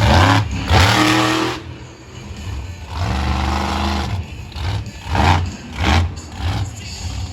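Monster truck engine revving hard in several bursts, the pitch climbing during the first one.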